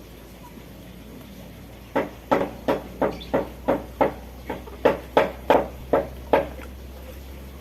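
A bird calling in a quick series of about a dozen short, sharp notes, about three a second, starting about two seconds in and stopping near the end.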